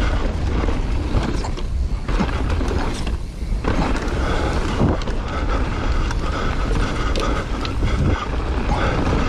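Wind buffeting the microphone as a downhill mountain bike rolls fast down a dirt jump trail, with knocks and rattles from the tyres and bike over the ground and a couple of brief lulls about two and three seconds in.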